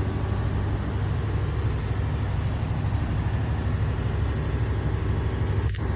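Steady low drone of running engine machinery, unchanging throughout.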